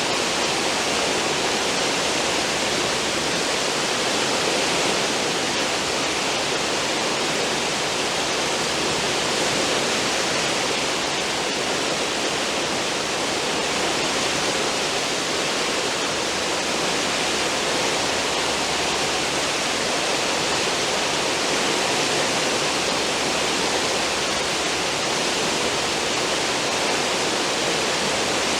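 A cruise ship's wake: foaming water churning and rushing in a steady, unbroken hiss.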